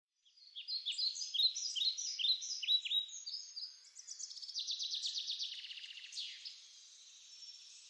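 Birds chirping and singing: a series of short, high, down-slurred notes, then a rapid trilling run about halfway through, fading away near the end.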